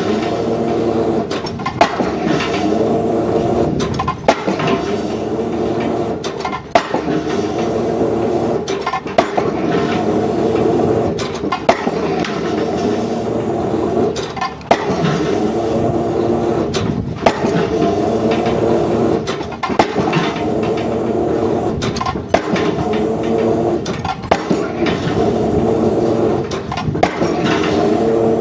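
Pile-driving hammer striking a pile about every two and a half seconds, with a heavy diesel engine running steadily underneath.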